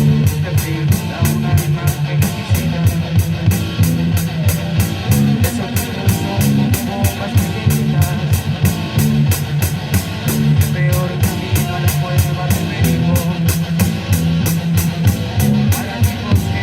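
Live band playing rock music: electric guitar and bass over a drum kit keeping a steady beat of about four strokes a second.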